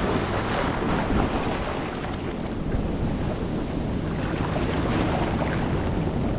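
Ocean waves breaking and washing ashore, with wind rumbling on the microphone.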